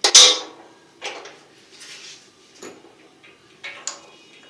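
Metal tools and heater parts knocking and clinking during hand reassembly of a gas water heater: one loud clank right at the start that rings briefly, then about five lighter clicks and clinks.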